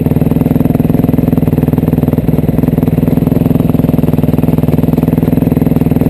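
Motocross dirt bike engine idling steadily close by, with an even, rapid firing beat.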